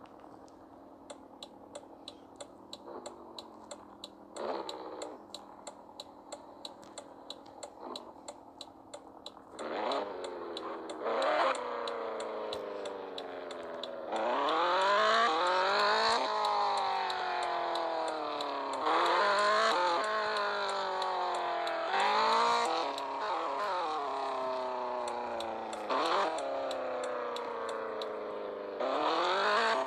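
Toyota Supra's 2JZ straight-six engine running quietly under an even ticking of about three a second. From about ten seconds in it accelerates hard through the gears, its pitch climbing and then dropping at each gear change, several times over.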